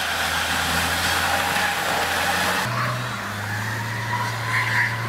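A car engine runs steadily while a car stuck on an icy road is pushed by hand. The engine note steps slightly higher a little under three seconds in.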